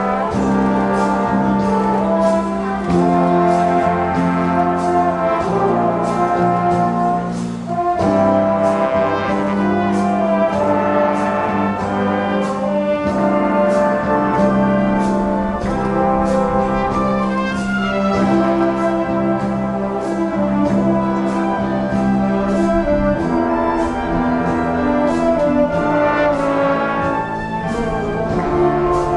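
High school marching band playing live: trumpets, trombones and other brass carry the tune over a steady drumbeat.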